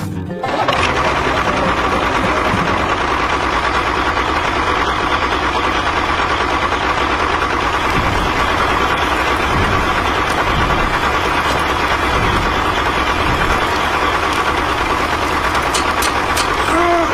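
A small motor running steadily at an even pitch, starting abruptly about half a second in.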